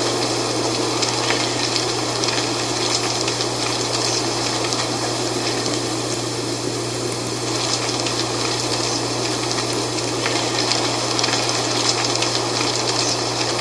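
Steady wind blowing through dry fall leaves: a continuous rushing with many small, quick leaf rustles and crackles over it.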